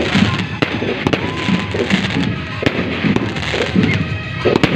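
Aerial fireworks shells bursting: three sharp bangs about two seconds apart over a continuous crackling din.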